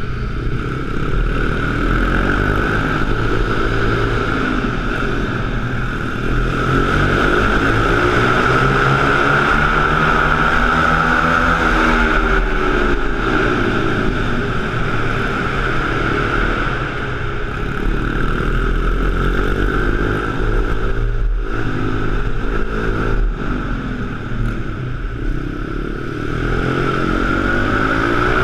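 Small pit bike engine running, its pitch rising and falling over and over as it revs and rides around.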